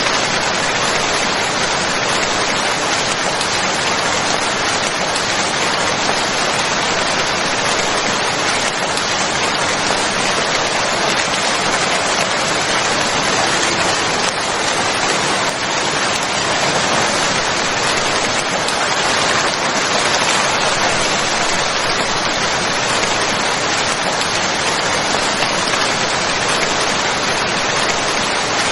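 Steady, even rainfall: a dense wash of raindrops with no let-up.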